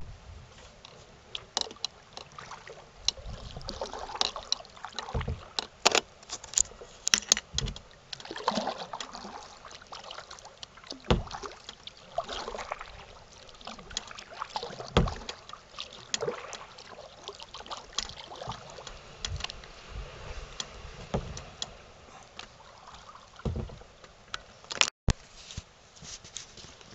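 Kayak paddling: paddle blades dipping and splashing in the water, with irregular knocks and clicks, and drips between strokes.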